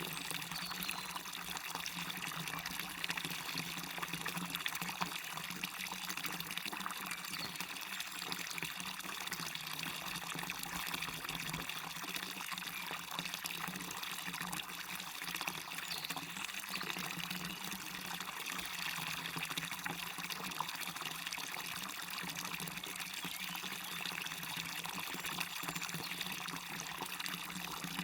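Waterfall and running water splashing steadily, an even, unbroken rushing.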